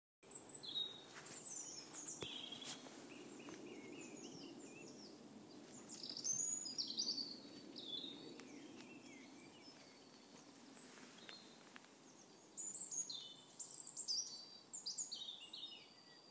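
Several songbirds singing, faint, in clusters of short falling chirps and trills that are busiest near the end, over a steady low background rumble.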